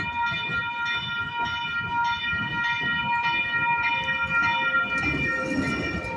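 Sacramento light rail train running, with a steady high-pitched whine of several tones over a low rumble that grows near the end.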